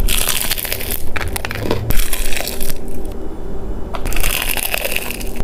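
Close-miked crunching of crispy food being bitten and chewed, in three spells with short pauses between them.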